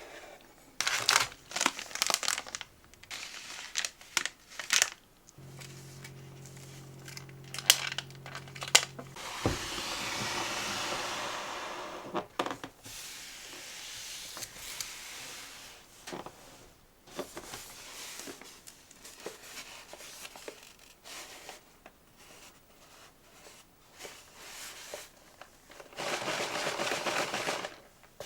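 Packaging being handled and opened by hand: paper and plastic crinkling and tearing, with scattered taps and clicks. A low steady hum sounds for a few seconds partway through.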